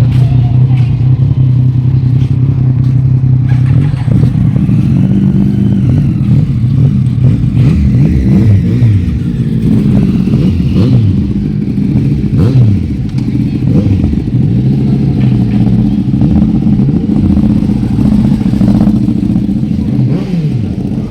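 Motorcycle engines running loud, holding a steady pitch for about the first four seconds. After that, pitches rise and fall again and again as bikes rev and move.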